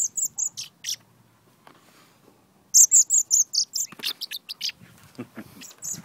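Fledgling songbird begging for food while being hand-fed: runs of short, high-pitched cheeps, about five at the start, then after a pause a louder quick run of about eight, tailing off with a few more.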